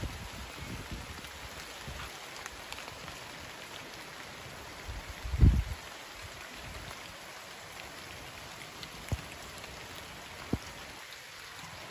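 Steady rain falling, an even hiss of drops. About halfway through there is a short low thump, the loudest thing here, and two sharp single taps come near the end.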